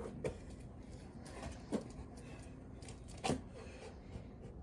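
Three dull thumps about a second and a half apart, over low room noise.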